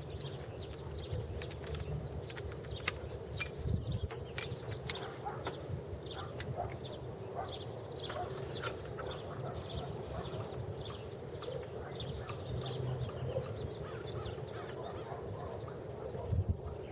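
Birds calling with many short chirps, over a steady low hum, with scattered sharp clicks.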